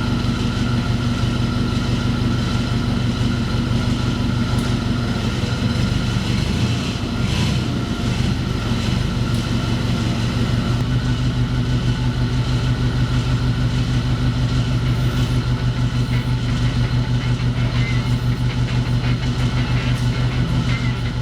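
An engine running at a steady speed with an even pulse, growing a little louder about halfway through.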